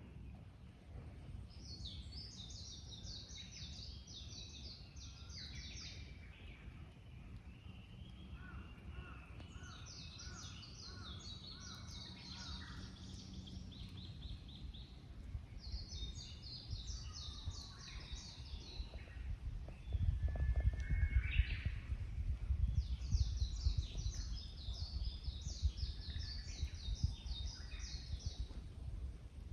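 A small songbird singing a high, fast trilled phrase lasting a few seconds, four times over, with a lower trill from another bird partway through. A low rumble under the song grows louder about two-thirds of the way in.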